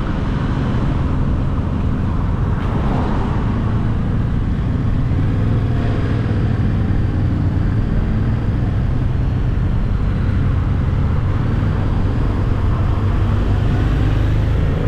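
Yamaha Tracer 700's parallel-twin engine running steadily while riding, with wind and road noise.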